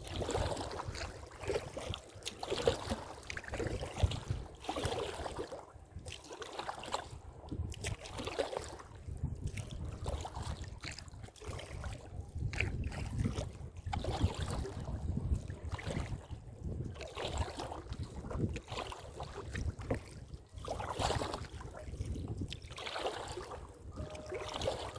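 Kayak being paddled through choppy sea: repeated, irregular paddle splashes and water slapping the hull, with wind buffeting the microphone as a low rumble.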